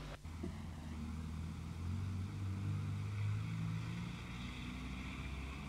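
Car engine running, heard from inside the cabin as a low steady drone.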